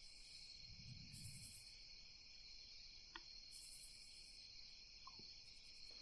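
Faint night insect chorus: a steady cricket drone, with short, higher chirping trills coming in four times.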